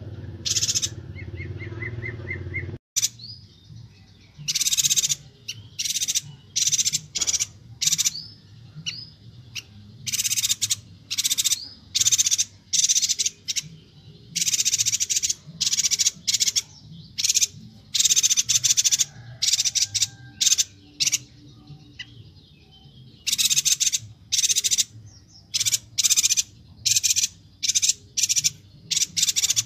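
Chestnut-crested yuhina (Yuhina Kalimantan) calling in rapid, high-pitched chattering bursts, repeated over and over in quick clusters. It opens with a short run of low pips over a hum, cut off abruptly about three seconds in.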